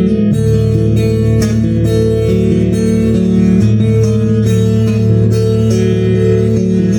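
Instrumental guitar music: picked guitar notes over a bass line, with no singing.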